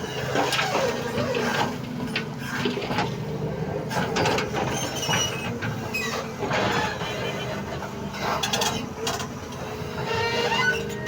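Doosan 220 excavator working: its diesel engine runs steadily while irregular knocks, scrapes and a few short high squeals come from the machine as it loads ore.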